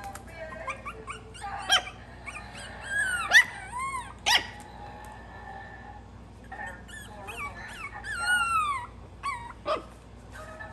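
Young Maltese puppies whining and yelping: many short, high, squeaky cries whose pitch bends up and down, coming in two flurries, the first peaking about three to four seconds in, the second around eight to nine seconds in.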